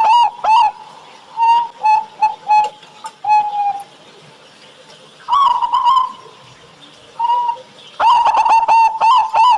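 Zebra dove (perkutut) cooing: a fast run of short, clear notes, then scattered single coos with gaps between them. A fast run starts again about eight seconds in.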